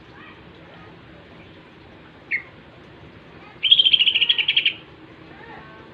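Cucak ijo (green leafbird) singing: a single short note a little past two seconds in, then a fast trill of evenly repeated notes lasting about a second, starting past three and a half seconds.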